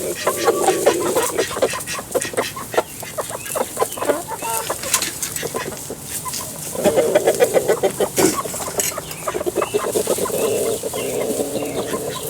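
A flock of chickens clucking, with many short clicks mixed in throughout.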